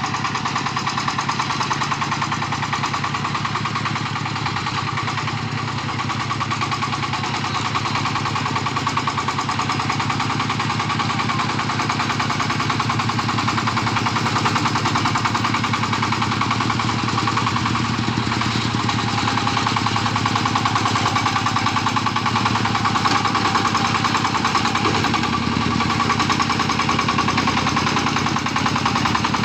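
Công nông farm truck's single-cylinder diesel engine running steadily with a rapid, even chugging beat.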